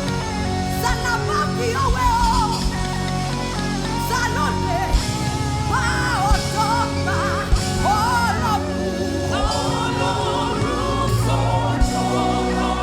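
Live gospel praise music: a singer's voice over a band with sustained keyboard notes and a steady drum beat.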